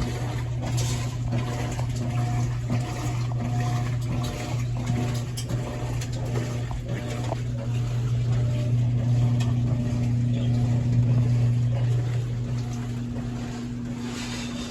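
Kenmore laundry machine running: a steady low motor hum with a fixed tone above it, with a few faint clicks, swelling slightly louder toward the last few seconds.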